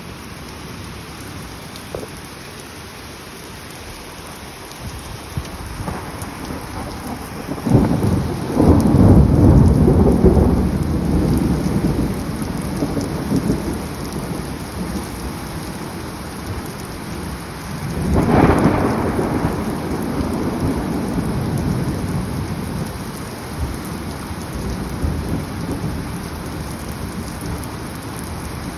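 Thunderstorm: steady rain with two rolls of thunder, the first starting with a sharp crack about eight seconds in and rumbling for several seconds, the second starting suddenly about eighteen seconds in and rumbling away.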